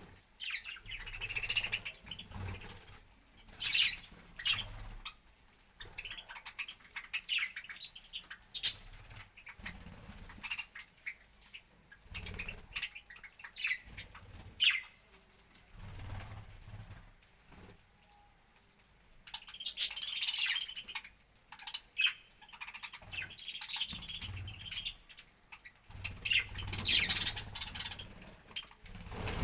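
Pet parrots chirping and squawking in short, irregular calls, busier in a couple of bursts near the end.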